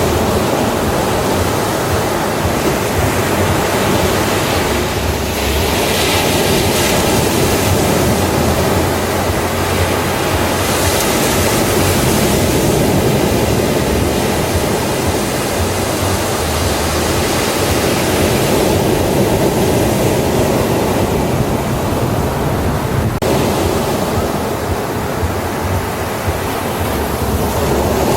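Ocean waves breaking on a beach: a continuous rush of surf that swells and falls back every several seconds.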